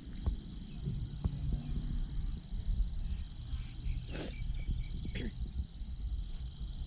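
Insects, crickets or cicadas, trilling in a steady high-pitched drone over a low rumble, with two brief clicks about four and five seconds in.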